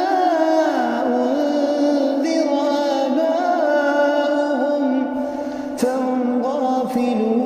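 A reciter's voice chanting the Qur'an in melodic tajweed style, drawing out long, ornamented held notes that slowly bend up and down in pitch, with a short break about six seconds in.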